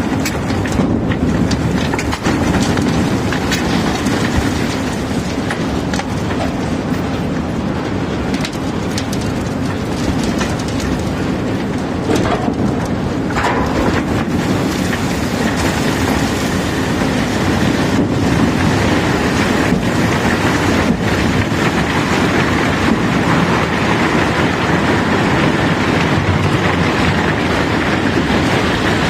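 Steady rumble and rattle of machinery and cobblestones during the unloading of a barge, with a few scattered knocks.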